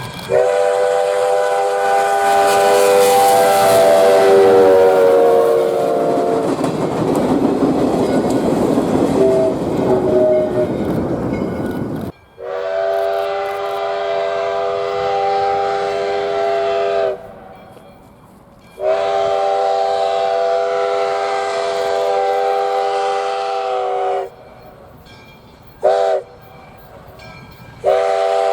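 Steam locomotive #148's chime whistle blowing: a long blast, then a loud rush of the train going by, then the grade-crossing pattern of long, long, short, and the start of another long blast.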